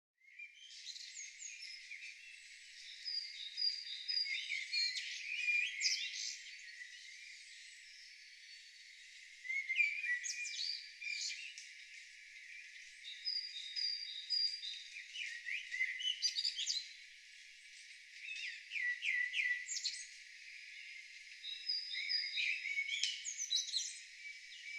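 Songbirds singing: a mix of chirps, trills and high whistled notes, with one bird's phrase of short high notes returning every few seconds. The sound is thin, with nothing in the low range.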